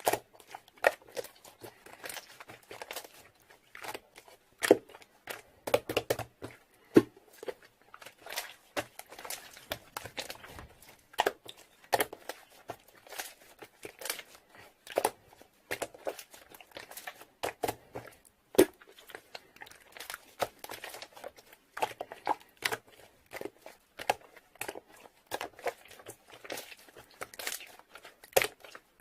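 Close-up crinkling and crackling from something being handled: a dense, irregular run of small clicks and crackles with no steady rhythm.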